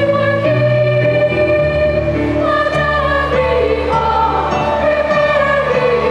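Children's choir singing a Christmas carol in long held notes over a low instrumental accompaniment.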